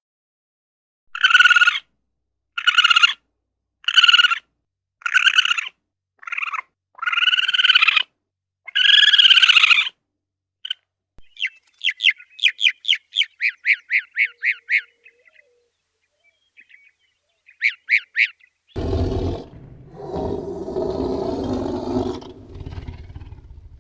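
A goose honking, seven loud calls of about half a second to a second each. Then a fast run of high, thin bird chirps about halfway through, and a few more shortly after. Near the end comes a low, rough sound lasting about four seconds.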